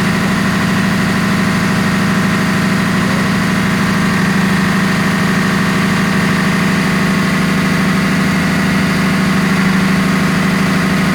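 Engine-room machinery running: a loud, steady drone with a strong low hum and a faint high whine, unchanging throughout.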